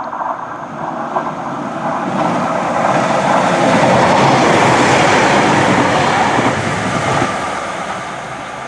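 Class 195 diesel multiple unit passing through the station without stopping: its noise builds as it approaches, is loudest as it goes by, then fades as it runs away.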